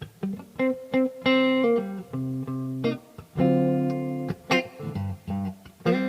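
Yamaha STH 500R guitar played solo, with plucked single notes and chords. Some chords are let ring for about a second, with short gaps between phrases.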